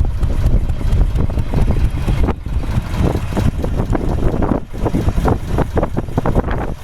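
Ruston diesel engine of a narrowboat running, a continuous low chugging with rapid uneven beats. Wind buffets the microphone.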